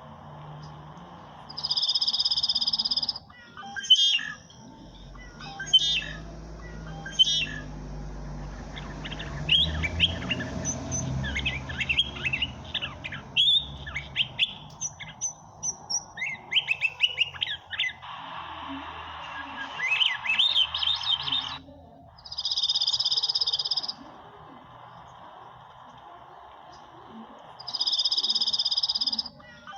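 Several birds chirping and singing, with many quick rising and falling calls through the middle. A steady high buzzing call, about a second and a half long, comes three times: near the start, about two-thirds of the way through, and near the end.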